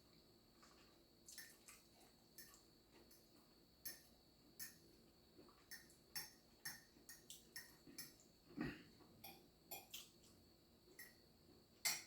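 Close-miked eating: chewing with wet mouth smacks and clicks coming irregularly, a few a second, with a low thud about three-quarters of the way through and a sharper click near the end.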